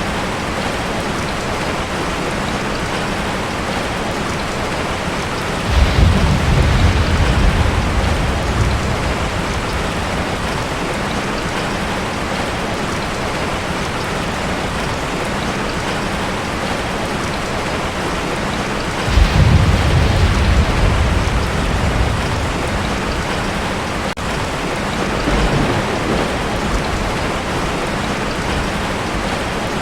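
Heavy rain drumming steadily on a tin roof. Thunder rumbles twice, about six seconds in and again near the middle, each lasting a few seconds, with a fainter rumble near the end.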